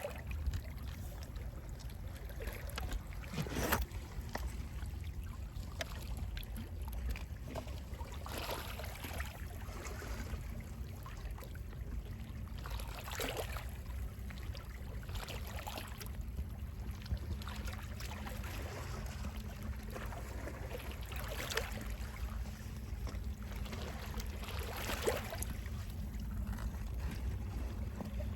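Gentle sea waves lapping, with small splashes every few seconds over a steady low rumble of sea wind.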